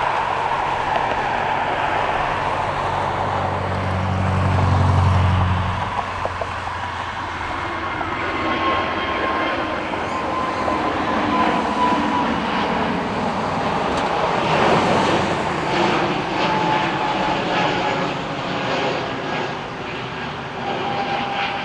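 Jet airliner engines running with a steady rushing noise and a thin whine that drifts slightly lower. A low drone swells about four seconds in and stops about six seconds in.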